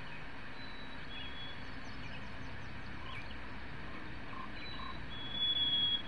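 Recorded white-throated sparrow song played back through a laptop speaker: thin, pure high whistles over a steady hiss. A few faint short notes come in the first second and a half, then a longer, louder held whistle near the end.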